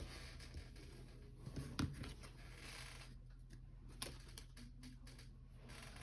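Faint handling of trading cards: cards sliding and being shuffled, with small taps and a sharper click about two seconds in and again about four seconds in, over a low steady hum.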